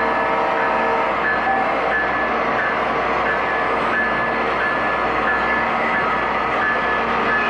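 Sound-equipped O-gauge model trains running on a layout: a steady rumble of locomotive running sounds and wheels on track, with a repeating bell-like ding about every two-thirds of a second. A held horn-like tone fades out about a second in.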